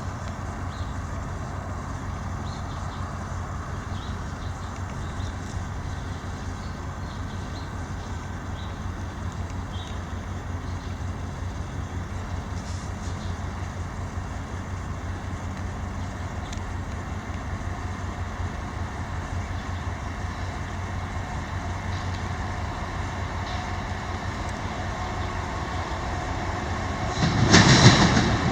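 GE diesel locomotives of a freight train approaching: a steady low engine rumble growing slowly louder, then a sudden loud surge of engine and rail noise near the end as the lead units come close.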